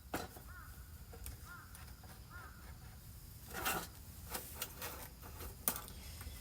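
Rustling and clicks of camping gear being handled, with a louder rustle a little past the middle. A bird calls faintly in the background several times in the first half.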